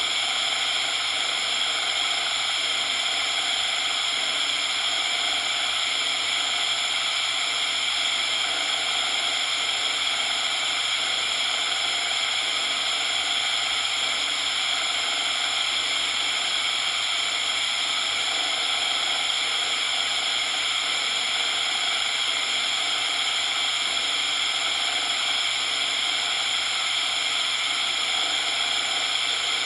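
Steady synthetic coloured noise: an even hiss weighted toward the high end, unchanging throughout.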